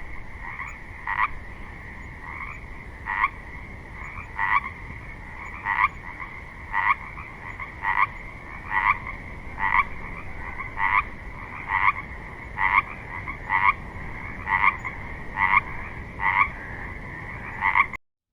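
Frogs croaking: a short call repeated about once a second over a steady high-pitched chorus. It cuts off suddenly near the end.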